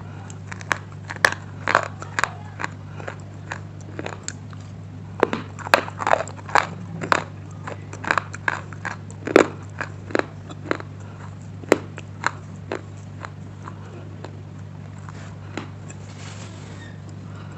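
Close-miked biting and chewing of a hard, brittle edible slate stone: irregular sharp crunches, thickest in the middle and thinning out near the end, over a steady low electrical hum.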